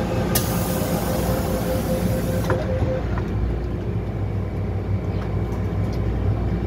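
MTR M-Train electric multiple unit braking to a stop, heard from inside the car. A steady whine and a hiss cut off about two and a half seconds in, and the stopped train is left with a low steady hum.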